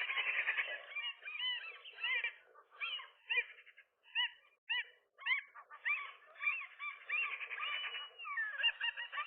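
Several gulls calling over one another in harsh, repeated arched calls during a fight over a nest. The calls thin out to scattered single notes in the middle, then build to a dense chorus again from about six seconds in.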